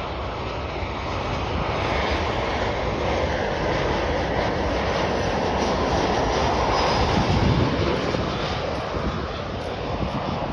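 Jet engines of a landing Boeing 737-800 airliner (CFM56 turbofans) passing by, a steady rush that swells to its loudest about seven seconds in and then fades.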